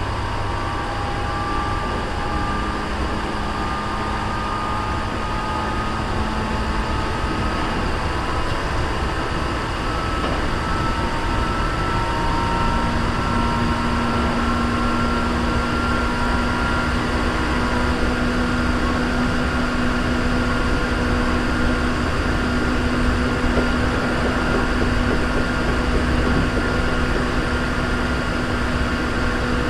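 Hankyu 3300 series electric commuter train heard from inside a car while running: a steady rumble of wheels on rail with a motor whine whose tones rise slowly in pitch through the first half, a sign of the train gathering speed.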